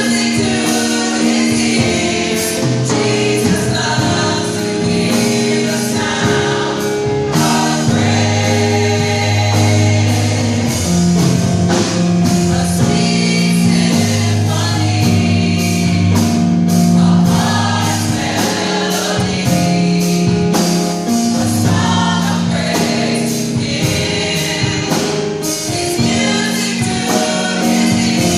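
Gospel choir singing with a band, over a steady beat and bass line.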